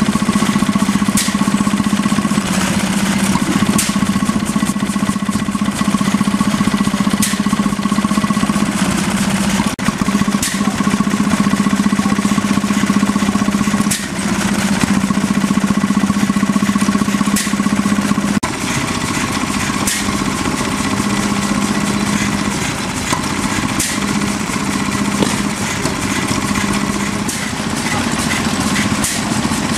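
Vintage stationary engine running steadily, with a higher whine that drops out and returns every few seconds.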